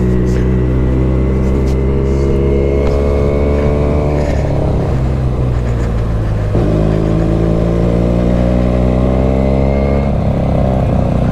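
Benelli motorcycle engine heard from the rider's seat, pulling up a hill road. The revs climb steadily for about four seconds and ease off, then pick up again at a lower pitch just past the middle and climb once more, with wind rushing past.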